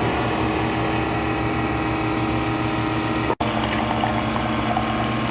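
Keurig coffee machine's pump running steadily as it dispenses hot water into a mug, a hum with a watery hiss. It cuts out for an instant about three and a half seconds in, then carries on at a slightly lower pitch.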